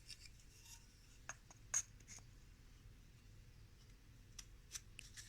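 Faint scattered clicks and light taps of wooden beehive frame parts being handled and pressed together, the sharpest one a little under two seconds in.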